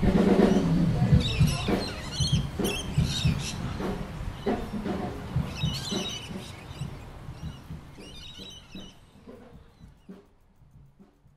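Birds chirping in short clusters over a low, uneven rumble, the whole fading out gradually to near silence by the end.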